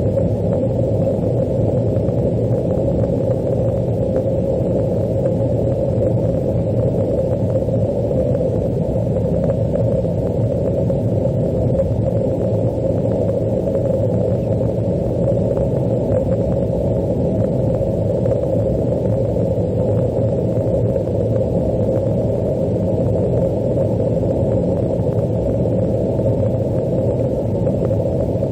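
Steady jet engine and airflow rumble of an Airbus A330-200 airliner, heard from inside the cabin, on its landing approach. It is deep and unchanging throughout.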